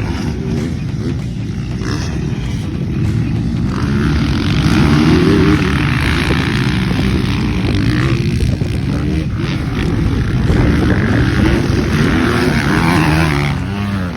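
Motocross dirt bike engine revving up and down again and again as it accelerates and shifts around the track, with wind rushing over the microphone.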